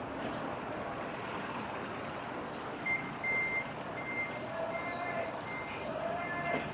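Small birds giving short, high chirps over a steady outdoor background hiss. From about three seconds in, a high, even beep repeats in short dashes.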